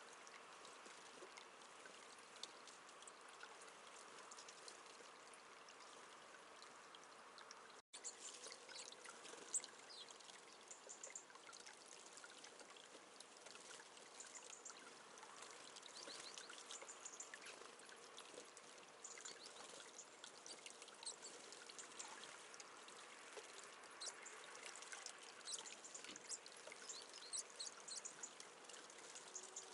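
Water steadily trickling and pouring into a bird bath. After a brief break about eight seconds in, many small high ticks and splashes come over the flow.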